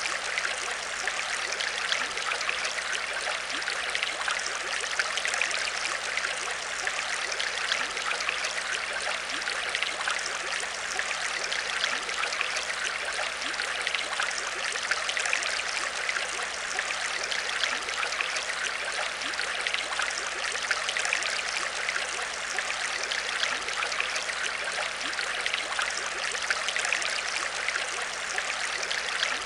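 Aquarium water trickling and splashing steadily, with a dense patter of small bubbles and droplets.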